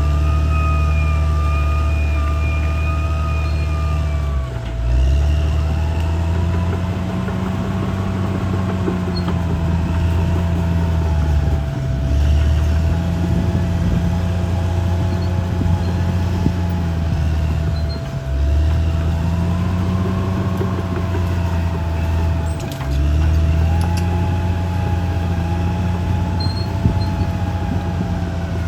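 CAT D6R XL bulldozer's diesel engine working, its speed rising and sagging in repeated cycles with a brief dip about every six seconds. A steady high whine runs throughout.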